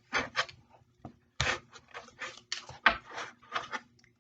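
Tarot cards being handled and shuffled by hand: a run of short, crisp rustles and snaps in quick clusters, falling silent just before the end.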